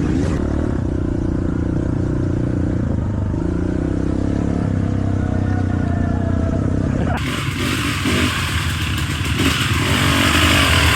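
Dirt bike engines running and revving under throttle. About seven seconds in, the sound switches abruptly to a louder, noisier engine sound.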